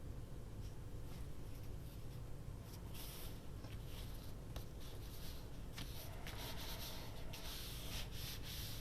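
Faint scratching and rubbing of paper being handled and smoothed down by hand, with louder stretches about three seconds in and again around six to eight seconds.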